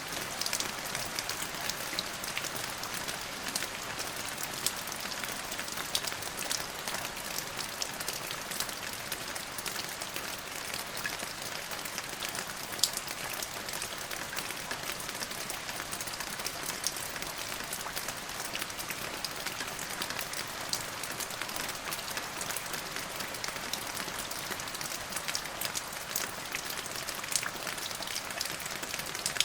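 Steady rain falling, a constant hiss dotted with many sharp individual drop hits; no thunder.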